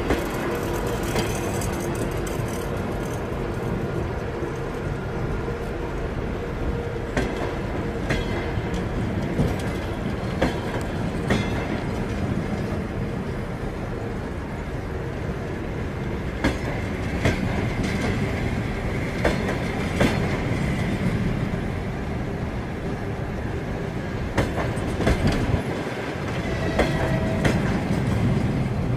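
Passenger railway coaches rolling past along the platform track: a steady wheel rumble with irregular sharp clacks as the wheels cross rail joints. A couple of brief faint wheel squeals come in the second half.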